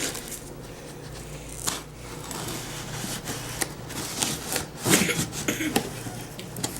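Large fixed-blade knife cutting through packing tape and the cardboard of a shipping box: scraping and rubbing with scattered small knocks.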